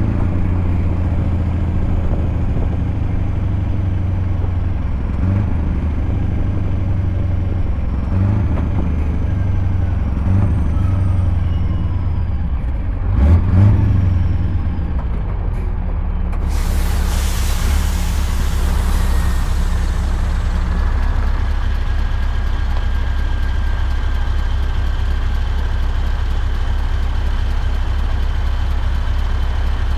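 Scania V8 truck engine running with a steady low drone, changing note briefly a few times in the first half. About halfway through a sudden loud hiss sets in and slowly eases off.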